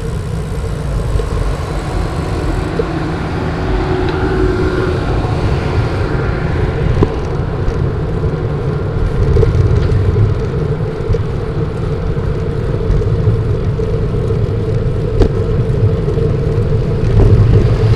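Wind buffeting a bicycle-mounted microphone while riding into gusty wind: a continuous low rumble, with a steady hum running underneath.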